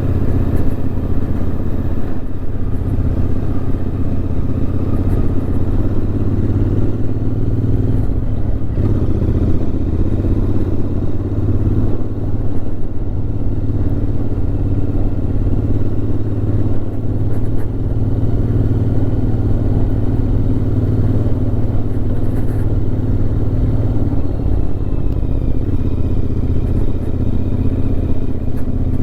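Motorcycle engine running steadily while riding along a road, its pitch holding fairly even throughout.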